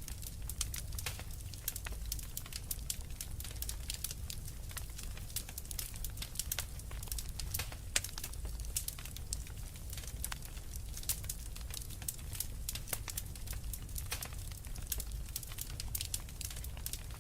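Wood fire crackling, with many small irregular snaps and pops over a low steady rumble.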